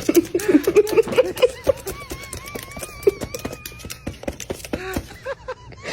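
A parrot making rapid sharp clicks mixed with short squeaky chirps, with a wavering whistle in the middle.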